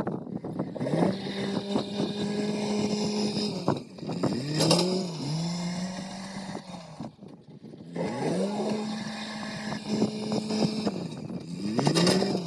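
A machine engine revs up and holds a steady pitch for a couple of seconds, then drops back, over and over. Two sharp metallic clanks come, one about halfway through and one near the end.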